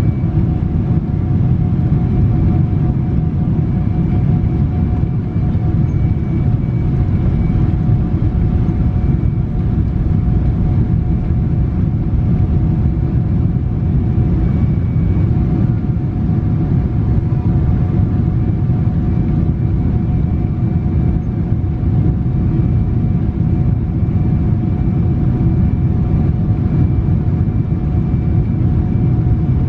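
Steady cabin noise inside a Boeing 777-300 airliner: a constant low rumble of engines and airflow, with two faint steady whining tones above it.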